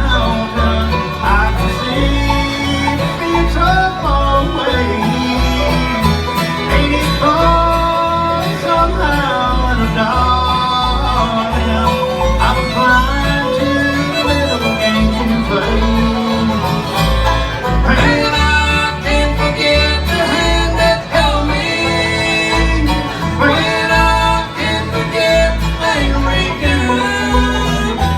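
Bluegrass band playing an instrumental break: fiddle carrying the melody over banjo and guitar, with a steady bass pulse on the beat.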